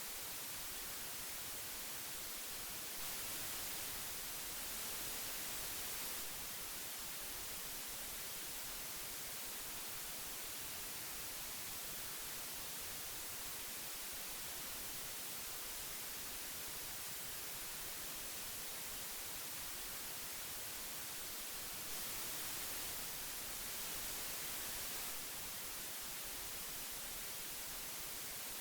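Steady hiss of old magnetic tape, strongest in the treble, swelling very slightly twice.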